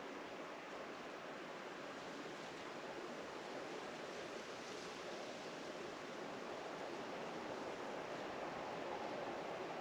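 Steady, even outdoor rushing noise with no distinct events, growing slightly louder near the end.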